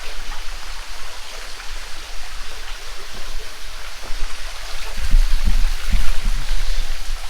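Cave stream water running with a steady rush. A few low thumps about five to six seconds in.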